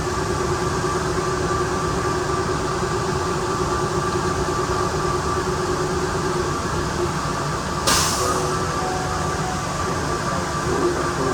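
Automated airport people-mover train running through a tunnel, with the steady pitched whine of its electric traction motor drive over rumbling running noise. A short sharp hiss sounds about eight seconds in.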